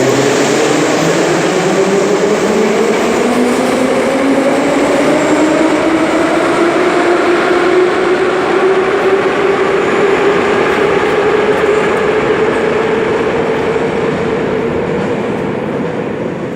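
Moscow Metro train accelerating, its traction motors whining in a rising pitch that levels off about halfway through, over the steady rumble of the running train.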